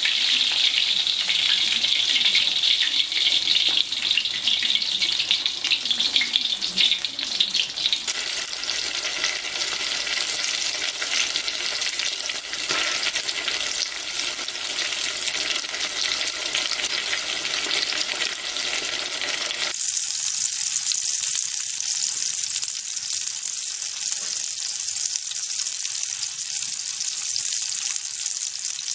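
Food frying in hot oil in a pan: a steady, dense crackling sizzle. It changes character abruptly twice, as fish steak, then chicken pieces, then sausages fry. The last part, with the sausages, is a thinner, higher hiss.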